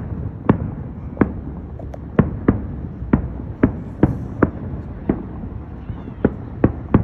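Aerial fireworks shells bursting in quick succession, about a dozen sharp bangs at roughly two a second, over a steady low rumble.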